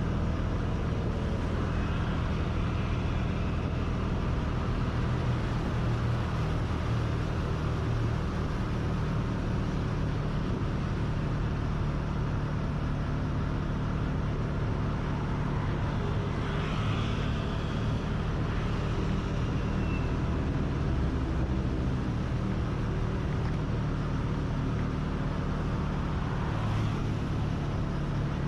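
A vehicle engine running steadily under way, with road and traffic noise around it. A brief higher sound stands out a little past the middle and again near the end.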